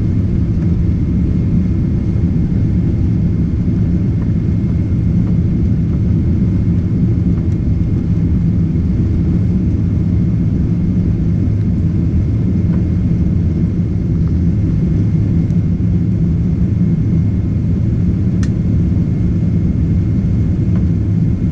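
Boeing 777-300ER's twin GE90 engines and airflow in a steady, heavy low rumble during takeoff, with a faint steady high whine over it and a single click near the end.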